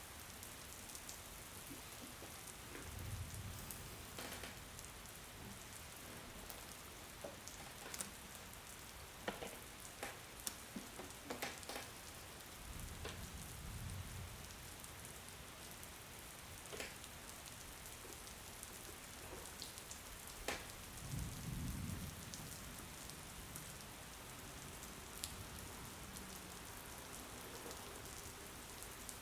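Steady rain falling, with scattered sharp drips or taps and three brief low rumbles.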